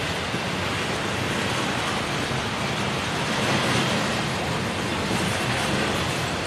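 Double-stack intermodal freight cars rolling past: a steady noise of steel wheels on the rails, swelling slightly a little past the middle.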